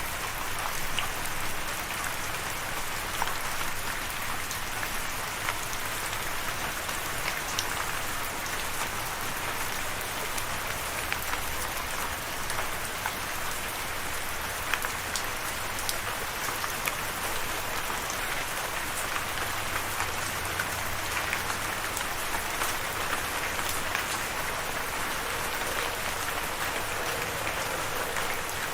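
Steady rain falling, an even hiss dotted with many small drop taps.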